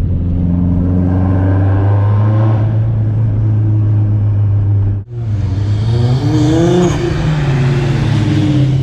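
Nissan Skyline GT-R R34's twin-turbo straight-six engine running with a steady note. After a sudden cut about five seconds in, it revs, its pitch rising and falling.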